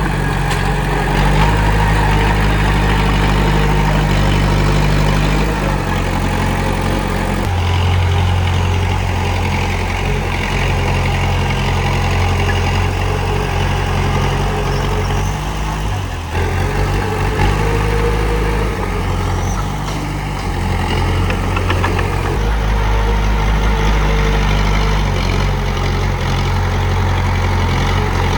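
Komatsu D31P bulldozer's diesel engine running while working, a deep steady engine note whose pitch and loudness shift every few seconds, changing abruptly about a quarter of the way in and again about halfway.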